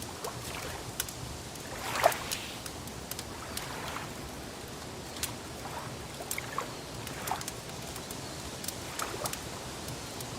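Wood fire crackling: irregular sharp pops and snaps over a soft steady hiss, with one louder pop about two seconds in.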